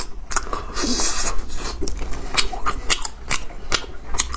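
Close-miked chewing of a soft chocolate mochi ball with a cocoa-powder coating, glutinous-rice skin and chocolate filling: a quick run of sharp mouth clicks, with a short hiss about a second in.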